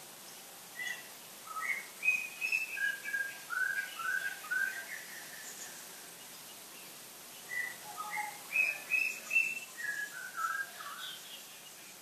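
A bird singing two phrases of clear whistled notes. Each phrase is a quick run of about ten short notes that climb and then drop in pitch, with a pause of a couple of seconds between the phrases.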